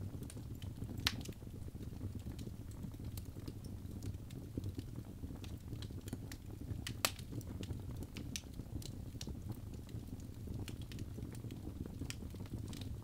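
Birch logs burning in a fireplace: irregular sharp pops and snaps over a low steady rumble of the flames, with two louder pops about a second in and about seven seconds in.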